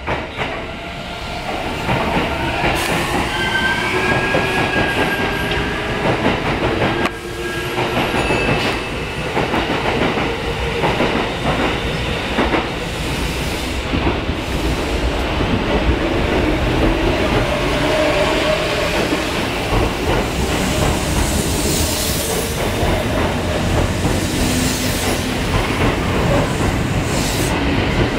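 Kintetsu electric train running along the platform, with steady rumble and repeated clicking of wheels over rail joints, and a rising motor whine in the first few seconds.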